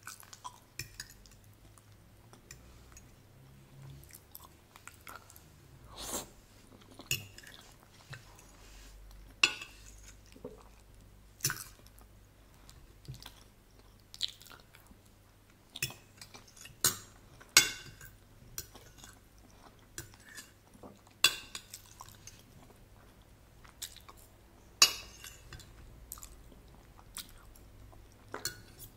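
Close-miked chewing and wet mouth smacks of eating tomato-sauced ricotta ravioli, with a metal fork clinking and scraping on the plate. Sharp, irregular clicks come every second or two.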